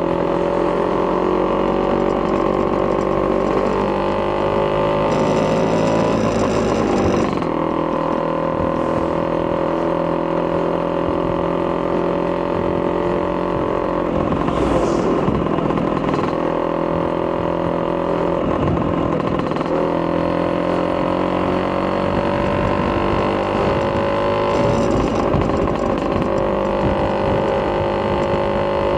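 Vespa PX200 scooter with a Polini 210cc kit and a Malossi expansion-chamber exhaust, its single-cylinder two-stroke engine running under fairly steady throttle, the pitch drifting slowly up and down. A brief rush of noise breaks in three times.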